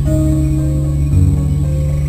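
Bass-heavy music played loud through a car stereo's old Pioneer subwoofers, with deep sustained bass notes that change about once a second and a heavier bass hit about a second in.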